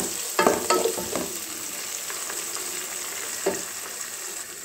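Sliced shallots, garlic and green chillies sizzling in hot oil in a pan as they are sautéed. A wooden spoon stirs them, with a few short scrapes in the first second and one more near the end.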